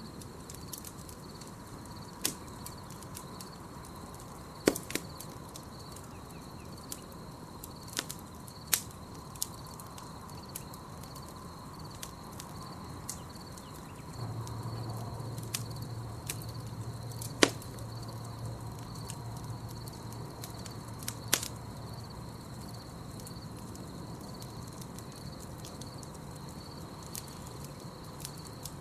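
Campfire crackling with scattered sharp pops, the loudest about two-thirds of the way through, over the steady pulsing trill of crickets. A low hum joins about halfway through.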